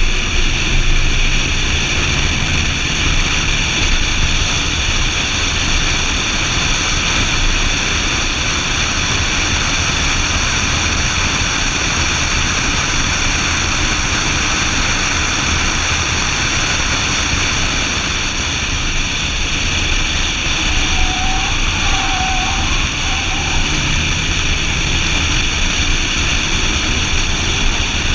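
BMW Z4 M Roadster's S54 straight-six running at speed on track, heard from an onboard camera and largely buried under a steady rush of wind and road noise. A short, faint high tone comes through about three quarters of the way in.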